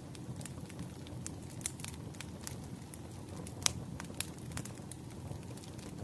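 Firewood burning with irregular crackles and pops over a steady low rush of flame. One pop a little past halfway is louder than the rest.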